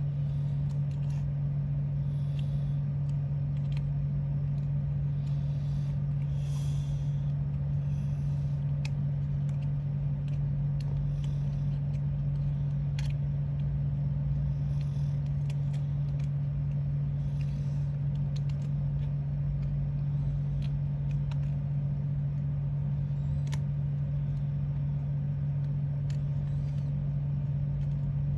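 A steady low hum runs unchanged, with scattered light clicks and brief rustles from hands working on craft materials.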